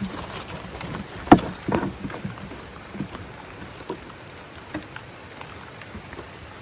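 Diesel sloshing in a diesel heater's fuel tank as it is handled, with a sharp knock about a second in and a few lighter knocks against the tank.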